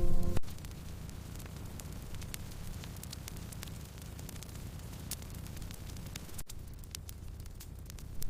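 Wood fire crackling: scattered sharp pops and ticks over a steady low hiss and rumble.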